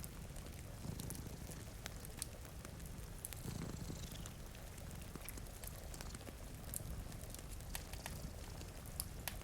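Domestic cat purring, the low purr swelling and fading with each breath, over a wood fire's scattered crackling pops and a steady hiss of rain.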